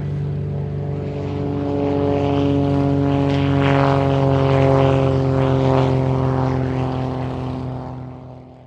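A steady, loud droning hum with several held tones that sink slightly in pitch, swelling midway and fading out near the end.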